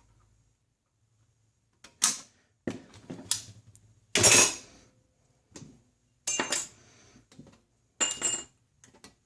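Sheet metal being cut at the corners with hand snips: a string of short, sharp metallic crunches and clatters about a second apart, starting about two seconds in, the loudest about four seconds in.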